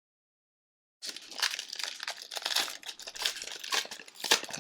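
Foil wrapper of a hockey card pack crinkling and tearing as it is opened by hand, starting about a second in.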